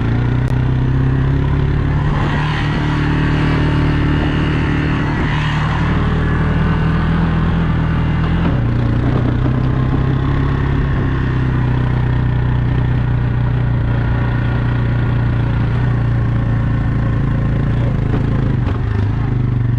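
JCB digger engine running steadily under load, its note stepping down a little about eight seconds in.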